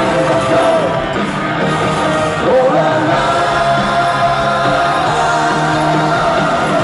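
Live pop-rock band playing an instrumental passage between sung lines, with sliding lead notes over steady chords, amplified in a large arena.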